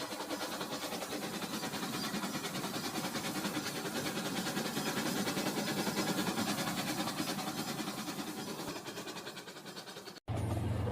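Toy train running on its plastic track, a quick, even clicking rhythm that grows louder toward the middle and then fades, cut off abruptly near the end.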